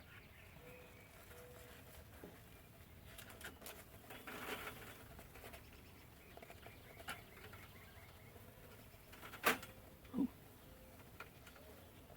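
Beehive being handled: scattered light clicks and knocks of wooden hive parts and frames, with a sharp knock about nine and a half seconds in.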